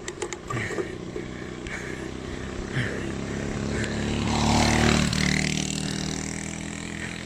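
A motor vehicle's engine passing by, growing louder to a peak about two-thirds of the way through and then fading away.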